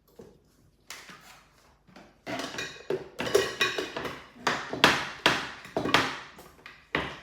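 Dishes and containers clattering and knocking as they are handled and moved about, a few scattered knocks at first, then a busy run of clatter from about two seconds in.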